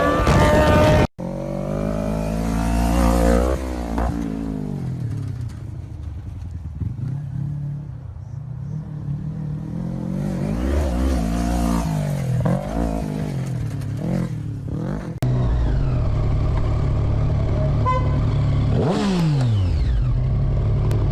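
Motorcycle engine revving up and dropping back again and again as it accelerates through the gears while riding. The sound cuts out sharply about a second in, and near the end a pitch falls steeply as a vehicle passes.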